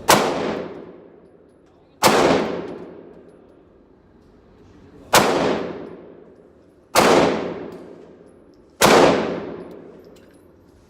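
Five single 9mm gunshots fired at an uneven pace, about two seconds apart, each trailing off in a long echo.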